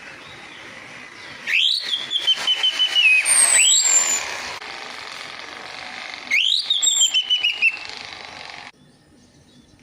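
Orange-headed thrush song: two loud whistled phrases, each sweeping up and then running down in a quick warbling trill, the first about a second and a half in and the second around six seconds, with thin high down-slurred whistles among them. The sound drops away abruptly near the end.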